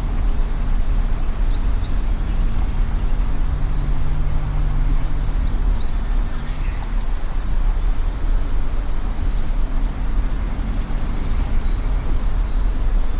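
Vehicle engine and road noise, a steady low rumble, while driving a forest road. A songbird chirps in three short phrases over it.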